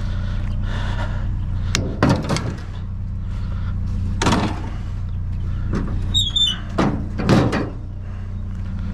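Vehicle engine idling steadily while a series of sharp clanks, bangs and scrapes ring out as scrap and junk are handled and thrown in.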